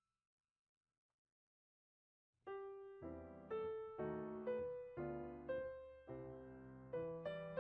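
Silence for about two and a half seconds, then background piano music begins, single notes struck about twice a second, each dying away.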